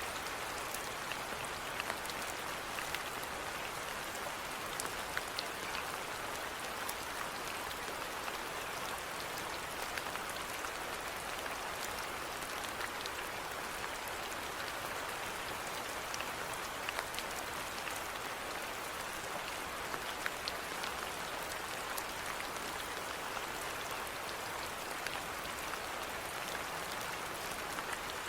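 Steady rainfall with many individual drops pattering on a surface, with frequent small, sharp drop ticks over an even hiss.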